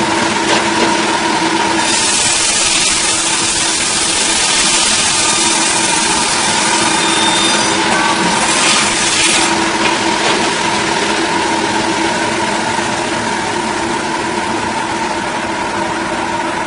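Engine-driven saw running steadily while cutting through a large log. A strong high hiss of cutting joins the steady engine note about two seconds in and lasts until near the end, easing briefly around the middle.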